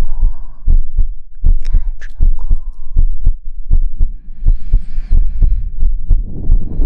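Soft, even patting right on the microphone, the rhythmic patting of ASMR lulling to sleep, about two to three low thumps a second. A soft hiss comes in briefly about five seconds in.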